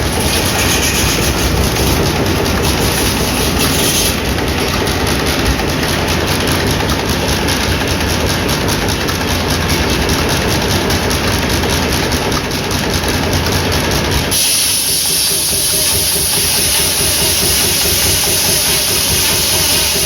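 Sawmill machinery running loud and steady, a circular-saw bench driven by a hot-bulb engine, with a fast even pulsing. About fourteen seconds in the sound changes abruptly to a high hiss over a lower, steady running sound.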